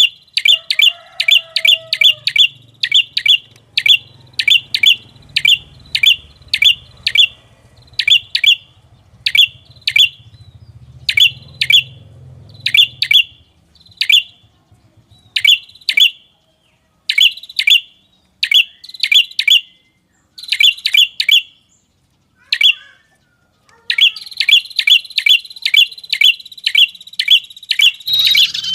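Lure-call recording of the red-headed prenjak, a small songbird: series of sharp, high chirps repeated several a second. The runs are fast at the start, thin out with short pauses through the middle, and speed up again near the end.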